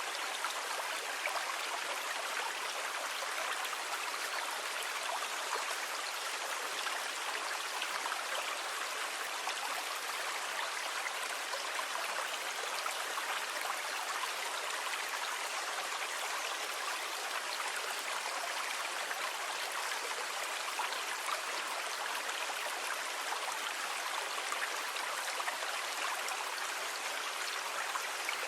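Sea water making a steady, even rush of noise, with no separate wave swells.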